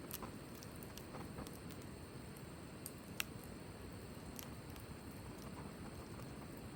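Campfire burning with a low steady rush, crackling with scattered sharp pops; one louder pop about three seconds in.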